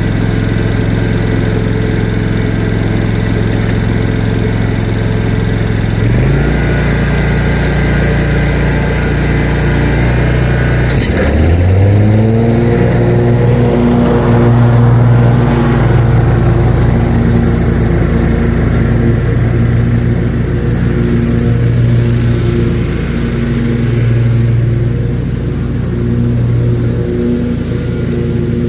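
Lawn mower engine running. It steps up in speed about six seconds in, then revs up smoothly about eleven seconds in and holds a steady higher speed.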